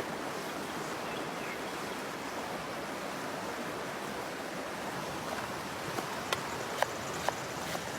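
Wood campfire burning: a steady hiss with several sharp crackling pops in the last couple of seconds.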